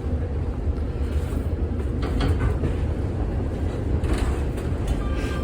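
A 1948 Philadelphia PCC streetcar moving off under power along the track, with a steady low rumble from its motors and wheels. A few sharp knocks come through about two and four seconds in.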